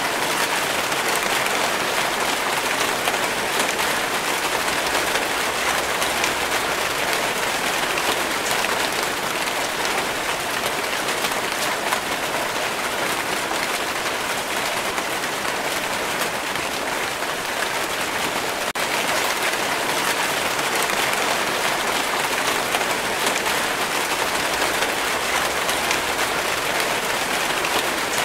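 Steady rainfall: an even hiss of countless raindrops striking, with individual drop hits ticking through it.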